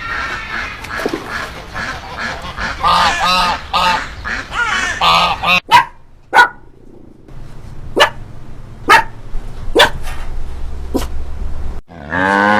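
Animal calls: a run of short, pitched calls crowding the first half. These give way to a handful of short, sharp calls about a second apart, and then a loud drawn-out call starts near the end.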